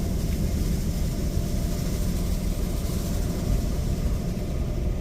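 Laserwash 360+ touchless automatic car wash spraying the car, heard from inside the cabin: a steady hiss of water jets on the body over a low rumble from the machine and its pump.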